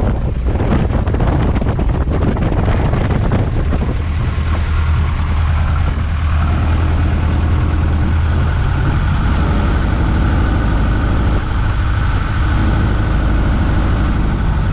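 Piper J-3 Cub's engine running steadily at low power after the landing, with uneven rushing noise over the first few seconds.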